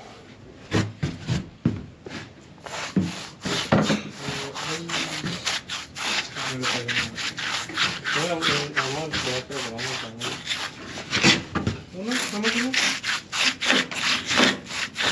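Paint roller worked back and forth through black oil-based paint mixed with sand, a repeated gritty rubbing stroke as the sand-textured coat is rolled onto the floor for grip.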